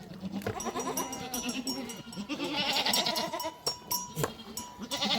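A herd of goats bleating, many calls overlapping, with livestock bells clinking.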